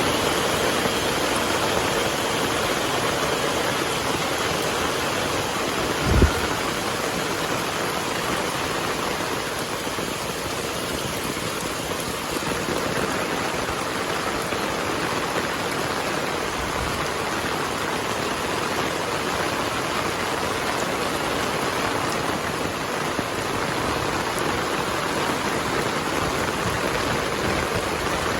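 Heavy rain falling steadily in a dense, even hiss. A single short, low thump about six seconds in.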